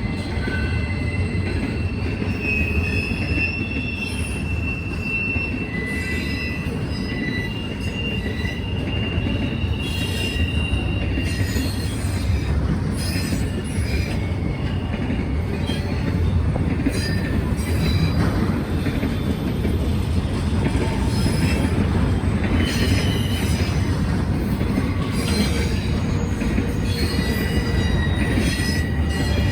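Norfolk Southern freight train rolling past, its cars making a steady low rumble. High thin wheel squeals come and go, and clicking from the wheels grows from about the middle on.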